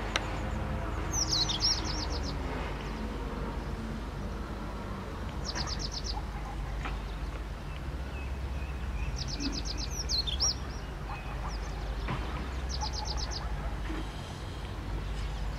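A songbird repeating a short, rapid trill of high notes four times, a few seconds apart, over a low steady rumble.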